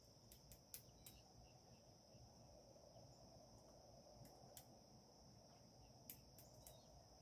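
Faint outdoor ambience: a steady high-pitched insect drone, like crickets, with a few faint sharp clicks scattered through.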